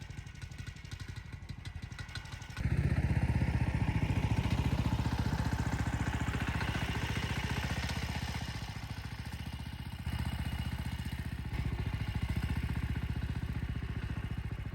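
Small engine running at a steady pulse, then suddenly louder, as under throttle, about two and a half seconds in. It keeps running at that level, easing off a little partway through and picking up again.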